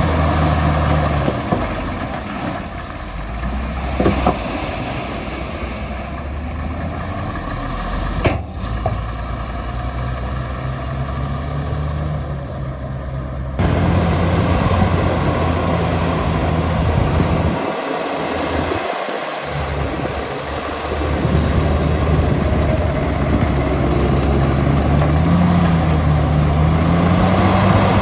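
Heavy diesel construction machinery running, with a steady low engine hum and a couple of sharp metallic knocks in the first half. The sound changes abruptly about halfway through, and the engine pitch rises near the end as it revs.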